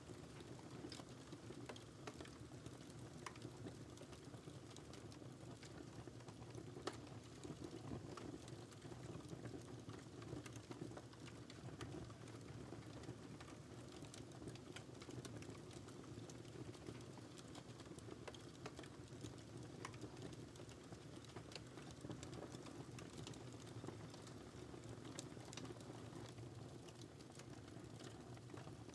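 Wood fire crackling softly: scattered small pops and snaps over a low, steady rush of burning.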